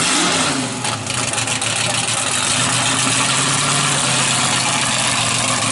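The 426 Max Wedge V8 of a 1963 Dodge Super Stock drag car, dual four-barrel carburettors and 15-to-1 compression, running loud. Its revs drop back just after the start, then it idles steadily.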